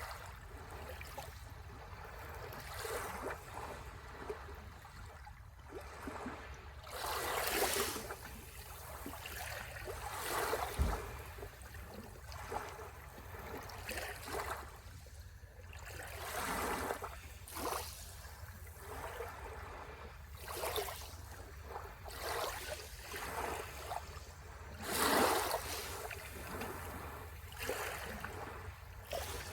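Sea waves washing onto the shore, swelling and ebbing every few seconds, with two larger surges, one about a quarter of the way in and one near the end.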